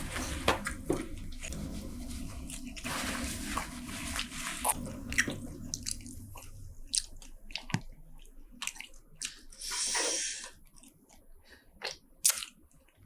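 Close-miked chewing and biting of spicy seafood (shrimp, squid and shellfish in sauce): a dense stretch of eating noise for about the first six seconds, then sparser clicks and mouth smacks, with a short hiss about ten seconds in.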